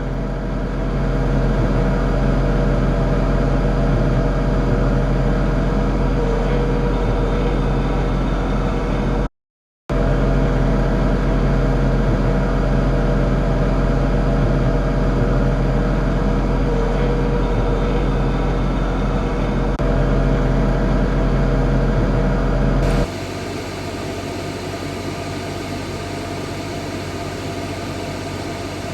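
John Deere 3046R tractor's diesel engine running steadily under load, driving the mid-mount snowblower. It cuts out for a moment about a third of the way in. Near the end it gives way to a quieter, different steady hum.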